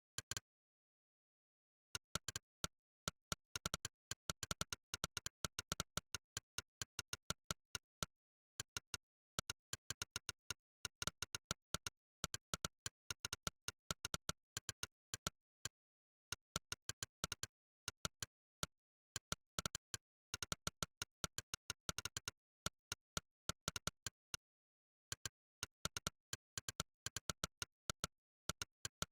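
Monkeytype's synthetic "click" keypress sound effect: one short click per keystroke, in fast, irregular runs of typing with dead digital silence between the clicks. The clicks pause for about a second and a half just after the start, briefly twice more, and stop shortly before the end.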